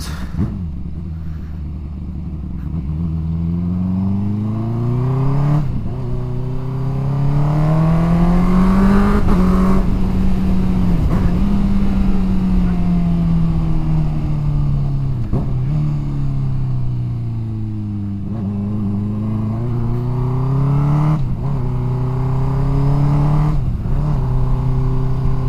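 Yamaha MT-07's parallel-twin engine running through a loud exhaust, its note rising and falling repeatedly as the bike speeds up and eases off in low gear, with a few short breaks in the note.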